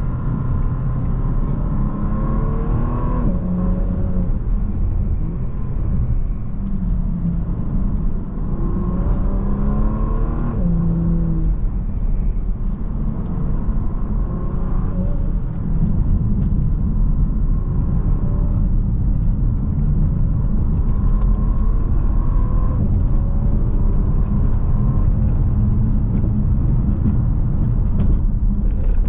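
Bentley Flying Spur Speed's 6.0-litre twin-turbo W12 engine pulling under load, its note rising and then dropping suddenly at upshifts of the dual-clutch gearbox about three and ten seconds in, then running more evenly. A heavy low rumble runs underneath.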